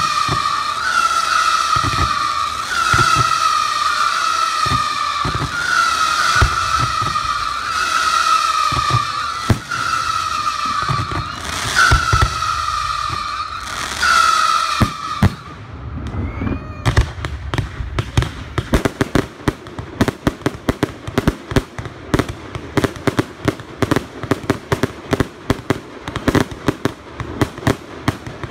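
Fireworks display: a run of whistling fireworks, wavering high whistles about a second each, one after another, over the low thuds of bursting shells. From about halfway on come dense crackling fireworks, many sharp pops in quick succession.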